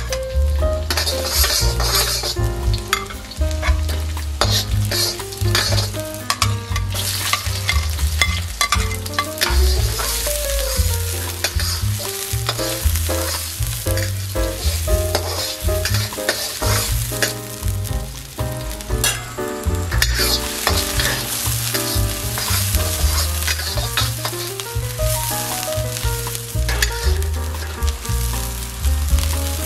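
Chopped garlic, ginger and onion sizzling in hot oil in a steel wok, with a metal wok spatula scraping and clanking against the pan as it is stirred. A steady low rumble runs underneath.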